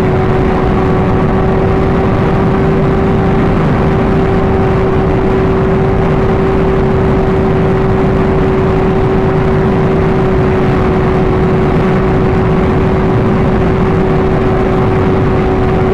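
Motorcycle engine running at a steady highway cruise, holding one constant tone, under heavy wind rush on a helmet-mounted action camera's microphone.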